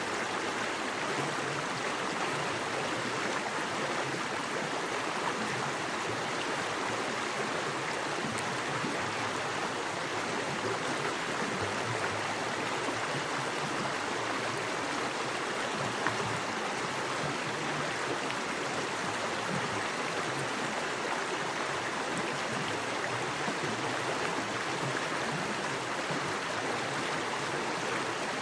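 Small forest creek with fast water rushing and splashing over rocks, a steady even rush.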